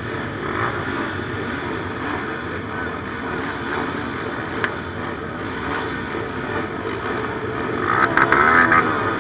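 Motocross motorcycle engines racing, revving up and down as bikes go by, with a louder burst of hard revving about eight seconds in.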